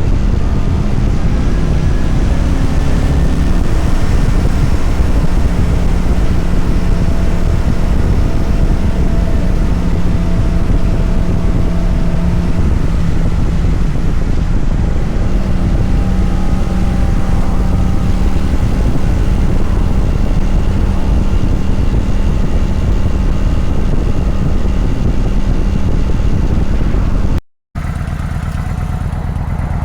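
Kawasaki Vulcan 900's 903 cc V-twin engine running at a steady cruise, its drone holding an even pitch under a loud, continuous rush of riding noise.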